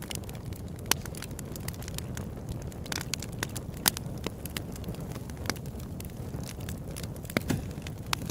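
Open-air wood campfire crackling: irregular sharp pops and snaps over a steady low rush of burning, with the loudest pops about one second and four seconds in.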